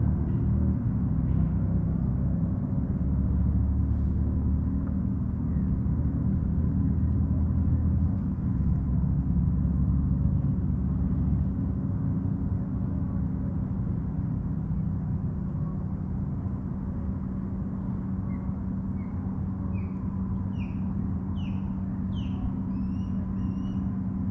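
A motorboat's engine running as a steady low rumble, louder in the first half and easing off after that. Near the end a bird gives a quick run of short, rising chirps.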